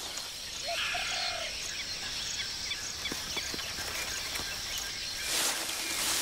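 Tropical forest ambience: birds chirping and calling over a steady, high insect drone, with a brief call about a second in. A burst of leafy rustling comes about five seconds in, as of animals moving through bamboo.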